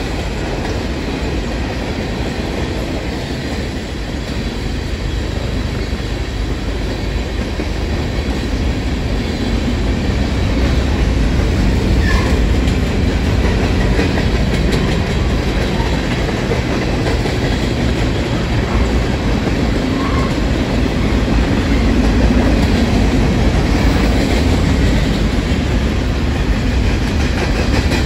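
A long freight train of tank cars and then boxcars rolling past on the rails, a steady low rumble of wheels on track that grows a little louder about ten seconds in.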